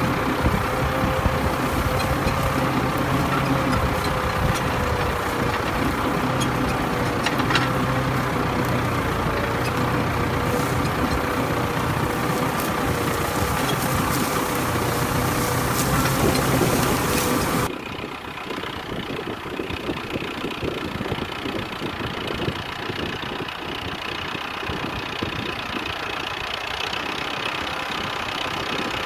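Ford 5000 tractor engine running steadily while plowing. About two-thirds of the way through, the sound abruptly becomes quieter and duller.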